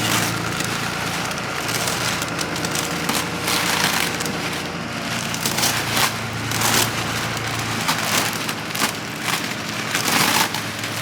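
An engine running steadily under a constant crackling, rustling noise.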